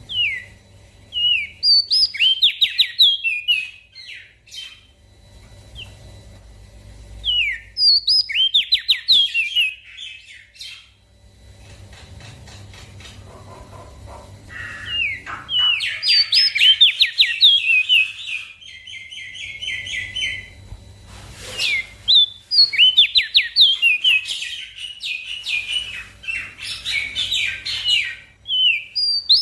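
Crested white-eye (opior jambul) singing in bursts of rapid, sliding chirping notes, with pauses between the phrases and a long run of song from about a quarter of the way in.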